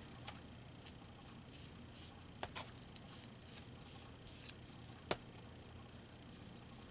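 Faint small taps, clicks and rustles of paper and craft supplies being handled on a tabletop, with a sharper click about five seconds in, over a low steady hum.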